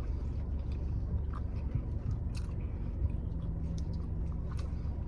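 Close-up chewing of a mouthful of pizza, with short wet clicks and smacks of the mouth, over a steady low hum.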